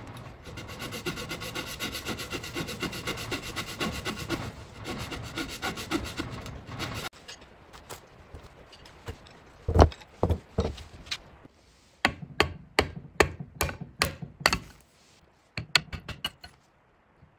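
Rapid back-and-forth rubbing on wood, like sanding, for about seven seconds, stopping abruptly. Then a series of separate sharp wooden knocks and scrapes.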